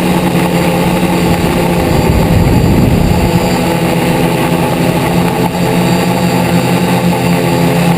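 Multirotor drone's electric motors and propellers buzzing steadily in flight, close to the onboard camera, with a slight waver in pitch about two to three seconds in.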